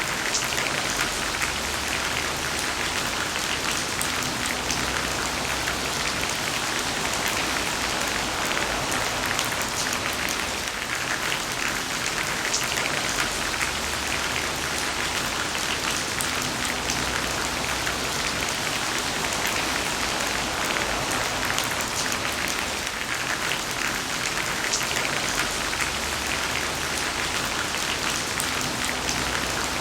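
Heavy rain falling steadily: a dense, even hiss of countless drops, with individual drop hits crackling through it. A faint low rumble swells and fades every ten seconds or so.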